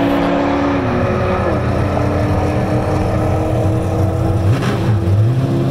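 A car engine running steadily close by. Its pitch steps down twice in the first couple of seconds.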